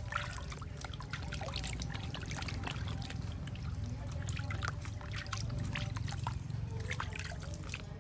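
Water trickling and pouring steadily, with many small splashes and clicks throughout.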